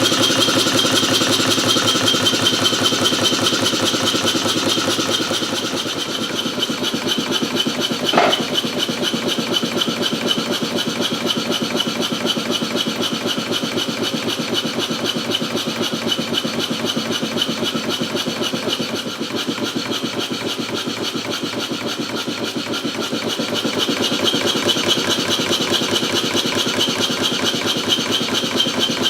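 Stuart No. 1 model steam engine, a single-cylinder double-acting engine, running steadily under steam with a rapid, even rasping exhaust beat. A brief squeak sounds about eight seconds in.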